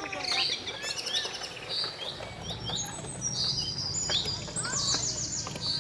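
Several small birds chirping and singing in quick, overlapping calls and trills, with a low steady hum coming in about two seconds in.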